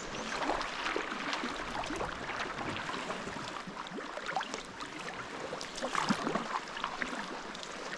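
Sea water splashing and sloshing irregularly around a sea kayak as it is paddled along the cliffs.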